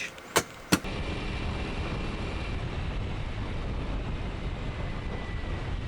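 A motorbike in motion: steady engine and road or wind rumble, with a faint steady whine. Two sharp clicks come just before the ride noise starts.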